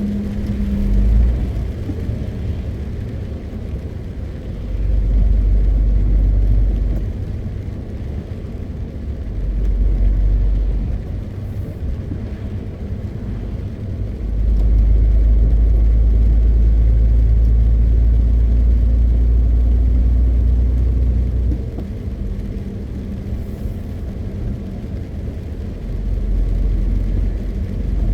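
MAN TGX 520 truck driving, its straight-six diesel engine and the road noise making a steady deep rumble. The lowest part of the rumble swells and fades several times; the longest and strongest swell comes in about halfway through and lasts around seven seconds.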